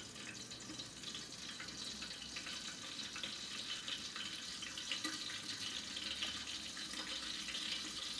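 Chicken pieces sizzling in a covered frying pan on a gas burner: a steady crackling hiss full of fine pops, growing a little louder over the first couple of seconds.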